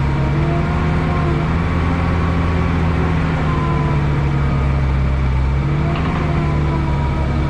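Heavy diesel engine of earthmoving equipment running steadily under work, its pitch rising and falling slightly as the engine speed changes.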